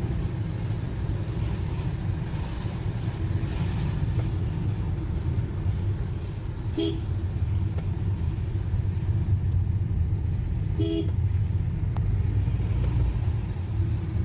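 Steady low engine and road rumble of a moving car, heard from inside, with two short car-horn toots, one about halfway through and another about four seconds later.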